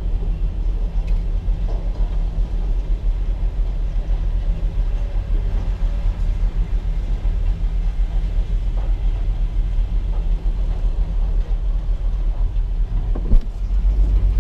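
A vehicle engine running steadily with a low rumble. A sharp knock comes near the end, and the rumble grows louder just after it.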